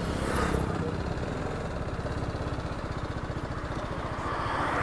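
Motorcycle engine idling steadily with a fast, even low pulse.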